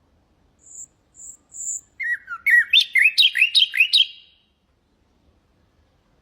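A nightingale singing one phrase. It opens with three thin, high whistles, then breaks into a fast run of loud slurred notes, about five a second, which stops about four seconds in.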